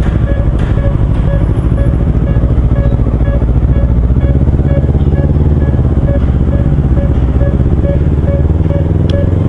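Kawasaki Versys-X 250's parallel-twin engine running steadily through a Norifumi slip-on exhaust while riding at speed, mixed with road and wind noise. A faint short tone repeats about twice a second.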